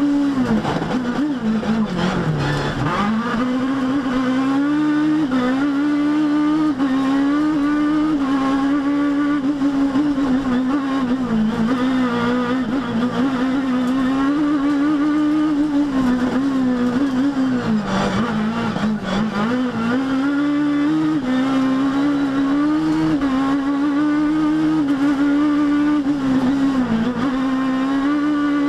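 Rally kit car's engine held at high revs for a long stretch, the pitch dipping briefly several times on lifts and gearchanges and climbing straight back.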